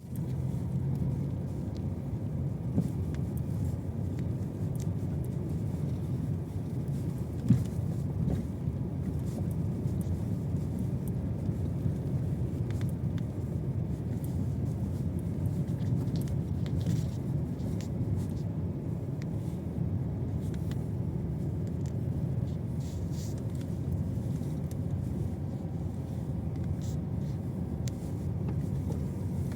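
Car on the move: a steady low rumble of road and running noise, with one short knock about seven and a half seconds in.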